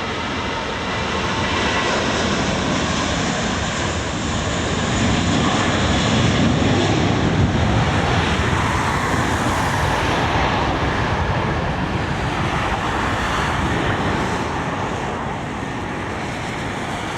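Jet airliner passing by, its engine noise swelling to a peak around the middle and then easing off a little.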